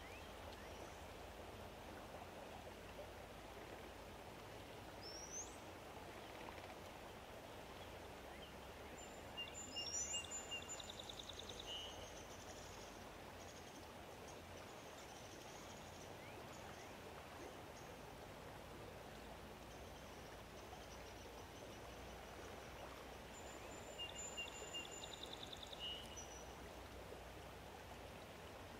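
Outdoor lakeside ambience: a steady soft hiss underneath, with a songbird singing the same short phrase of whistled notes and a brief trill twice, about a third of the way in and again near the end, plus a couple of quick rising chirps.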